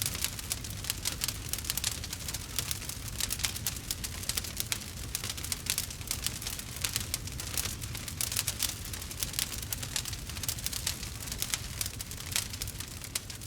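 Wood fire crackling: a dense, continuous run of small pops and snaps with a low steady rumble underneath.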